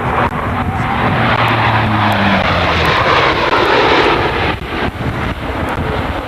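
Four-engine turboprop C-130 Hercules making a low, high-speed pass: a loud rush of engine and propeller noise with a low drone that sinks slightly in pitch. The noise builds to its loudest about four seconds in, then falls away.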